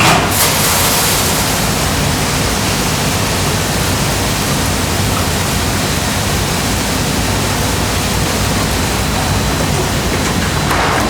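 Steady, loud noise of snack-factory production machinery: an even hiss with a low hum beneath, and a brief louder burst at the very start.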